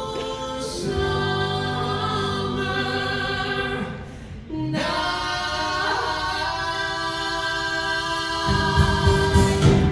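Group of singers holding long sustained harmony chords, two held chords with a short break between them, in a live stage musical medley.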